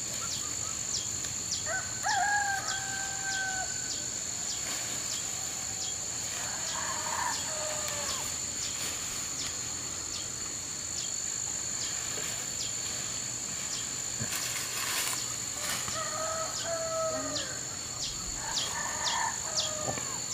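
Roosters crowing several times, each call long and drawn out, over a steady high drone of cicadas or crickets chirping in a regular rhythm.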